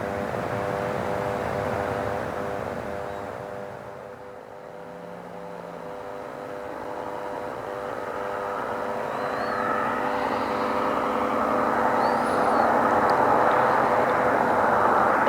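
Aircraft engines passing overhead: an engine drone with several steady tones fades away by about four seconds in, then a rushing engine noise builds steadily louder toward the end as another aircraft approaches.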